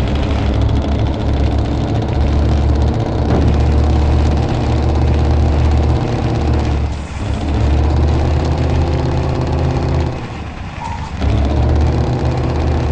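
A truck engine revving hard under load. Its pitch drops and climbs back up twice, about seven seconds in and again near ten seconds, as the stuck truck strains.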